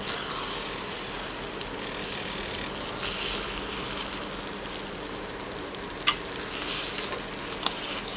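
Egg and tomato sizzling in a hot stainless frying pan while a plastic spatula stirs them, with a sharp click about six seconds in.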